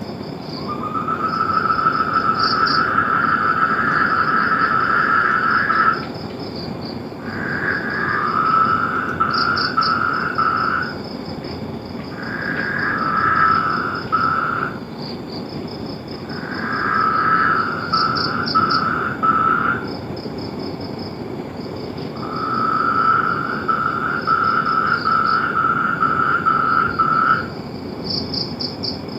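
Frogs calling in repeated bouts of pulsed trills, each lasting a few seconds with short pauses between. A higher, fainter pulsed trill and a steady background hiss run beneath them.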